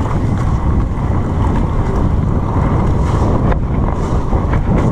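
Wind buffeting the camera's microphone during a fast mountain-bike descent on a wet trail, a steady heavy rumble with a few knocks of the bike over rough ground.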